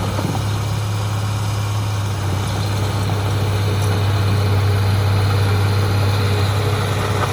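Heavy diesel engine of earthmoving machinery running steadily at a low, even hum, with no change in speed.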